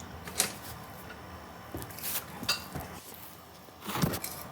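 A few light metallic clicks and knocks as an ATV drive chain is handled and fitted onto its sprocket.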